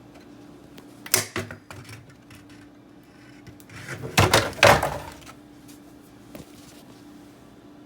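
Knocks and clatter of things being handled: a few sharp knocks about a second in, then a louder, longer burst of clattering around four seconds in.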